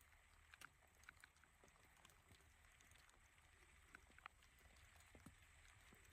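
Near silence with a handful of faint, scattered ticks and clicks.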